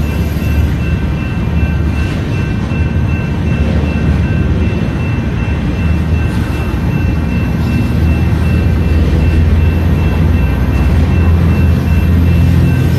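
Loaded flatcars of a welded-rail work train rolling past close by: a loud, steady low rumble of wheels on the rails, with a faint steady high whine over it.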